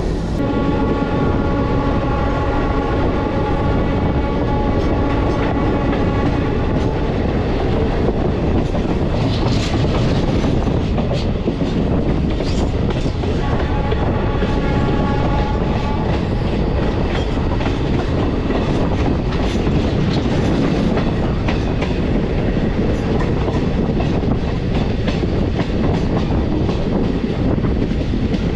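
Moving passenger train heard from an open coach door: steady running noise of wheels on rail with clatter over rail joints. The train's horn sounds a long blast for about seven seconds at the start and a shorter one about fourteen seconds in, as the train nears a level crossing.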